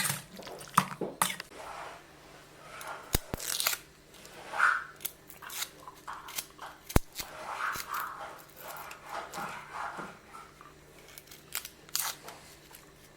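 Raw chicken thighs being mixed by hand in a marinade: scattered sharp clicks and a few short wet, squishing noises.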